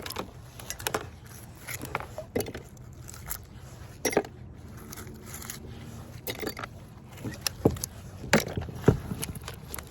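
Scattered metallic clinks and knocks, a few short ones spread out at irregular intervals: scrap metal and nails stuck to a magnet-fishing magnet being handled.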